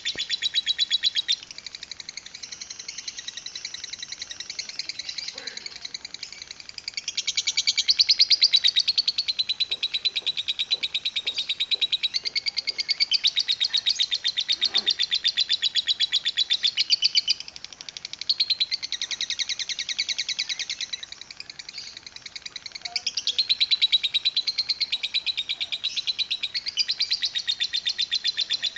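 Lovebird singing its long 'ngekek' chatter: a fast, unbroken string of shrill repeated chirps, many a second, rising to louder stretches and easing back several times without stopping.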